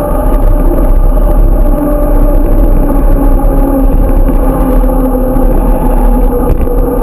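Bike being ridden at a steady speed: a loud, steady hum with a few held tones over a heavy low rumble.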